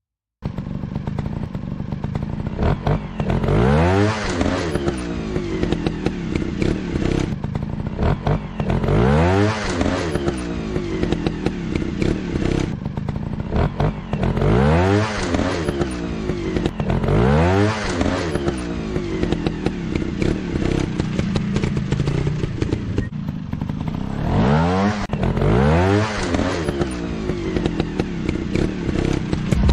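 Dirt-bike engines running hard off-road, revving up and dropping back in about five big surges, with scattered clatter and scrapes between them.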